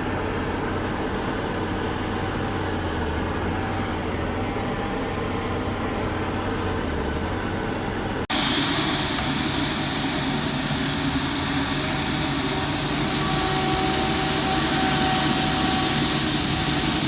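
Heavy equipment engines running steadily. About eight seconds in the sound cuts abruptly to a different, brighter engine noise.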